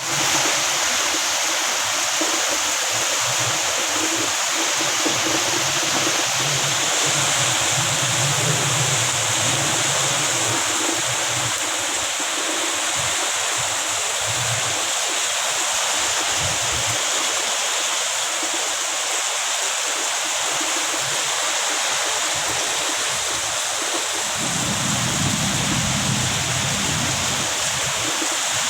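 Heavy rain pouring down in a steady, even hiss, with strong wind adding low rumbles that come and go, loudest near the end.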